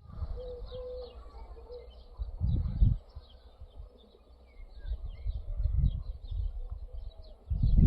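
Small birds chirping throughout, with a few short low hooting notes in the first two seconds. Low gusts of wind buffet the microphone in surges, the strongest about two and a half seconds in and again near the end.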